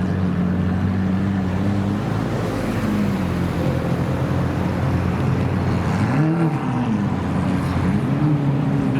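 Car engine running with a low, steady note, blipped once about six seconds in and revved up again near the end.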